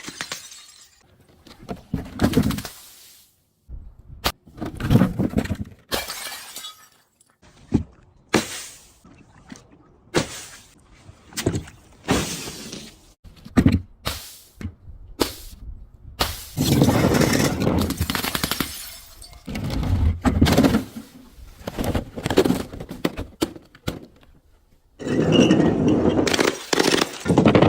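Brittle objects and glass being crushed and broken: a string of sharp cracks and crunches, with longer stretches of crunching and shattering about two-thirds of the way through and near the end.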